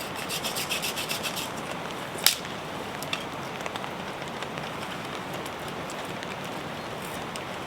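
Rapid rasping strokes of a blade cutting through a green branch for about a second, then one sharp crack a little after two seconds in. Steady rain hisses throughout.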